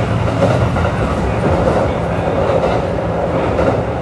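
Steady running sound of a Kintetsu 3200 series electric train heard from inside the car at its end: wheels rumbling on the rails with some joint clatter, and the air conditioning running fairly loudly.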